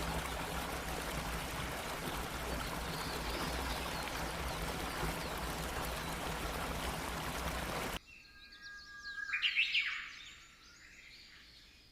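Steady rush of a waterfall's falling water, cutting off abruptly about eight seconds in. A few birds then chirp briefly against a much quieter background.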